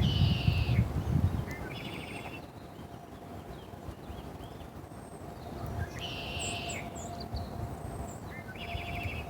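A songbird singing short, rapid trilled phrases in pairs, one pair at the start and another about six seconds later, with a few thin high chirps in between. A steady faint hum and a low rumble run beneath.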